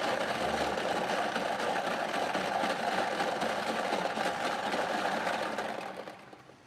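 Prize-draw machine running after its button is pressed: a steady mechanical whirr with a fine rapid rattle, fading out about six seconds in as the draw ends.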